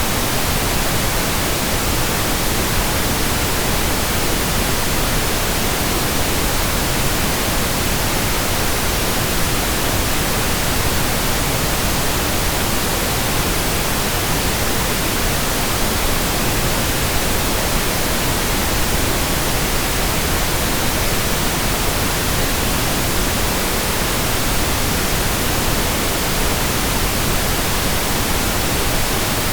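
Steady pink noise: an even, unbroken hiss across all pitches, generated for sleep masking.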